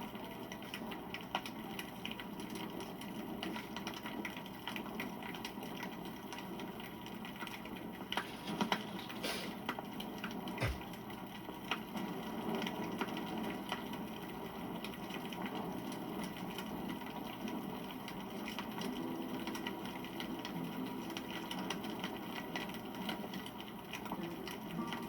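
Wood campfire burning, with steady crackling and popping; a few louder pops come about eight to nine seconds in.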